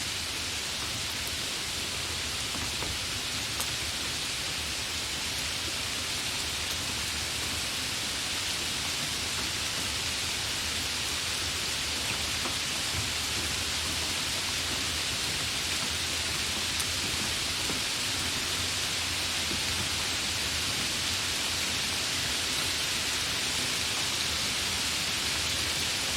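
Steady heavy rainfall, an even hiss with occasional faint individual drop ticks.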